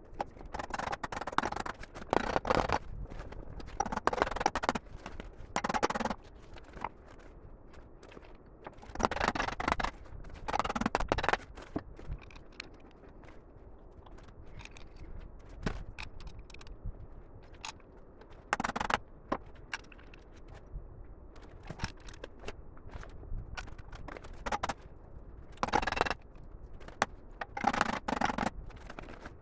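Intermittent scraping and clattering in short bursts of half a second to a second, typical of tools and parts being handled at a workbench.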